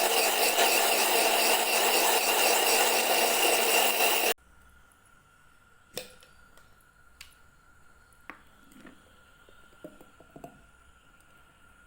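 Electric blender running steadily while blending juice, then cutting off abruptly about four seconds in. A few light glass clinks follow.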